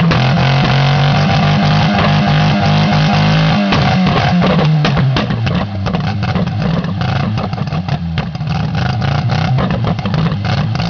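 2.0-litre Peugeot engine run flat out in an engine burnout, deliberately over-revved until it destroys itself. It holds a steady high-rev note, then about four seconds in it turns rough, with rapid irregular bangs and cracks.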